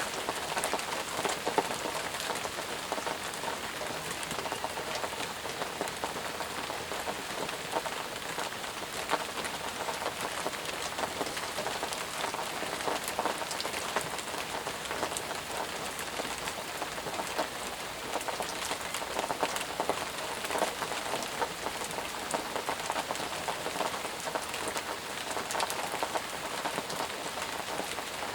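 Steady, heavy rain falling on surfaces, a dense hiss dotted with the sharp patter of individual drops.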